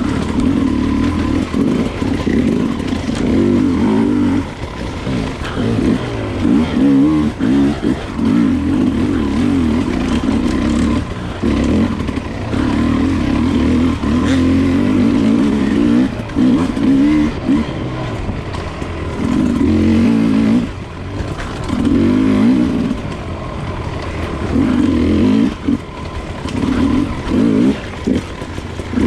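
Enduro dirt bike engine being ridden. It revs up and eases off again and again as the throttle is opened and closed.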